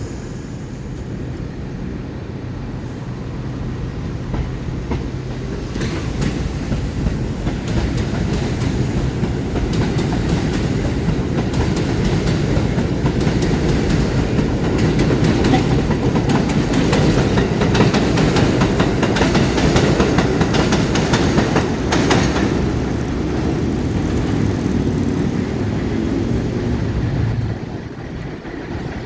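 New York City Subway (1) train running through the elevated 125 Street station on the IRT Broadway–Seventh Avenue Line. A steady loud rumble of steel wheels on the structure, with a rapid clickety-clack over the rail joints, builds to a peak in the middle and drops off near the end.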